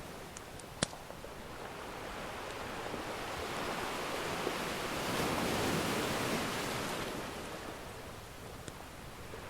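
Ocean surf washing in, swelling to its loudest around the middle and then ebbing. A few sharp pops from a crackling wood fire come within the first second.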